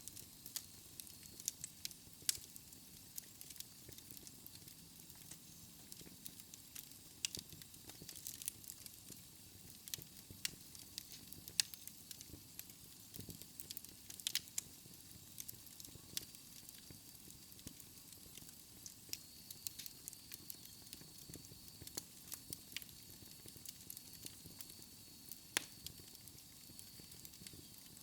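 Wood fire crackling in a fireplace: irregular sharp pops and snaps over a soft steady hiss, with a faint thin high whistle joining about halfway through.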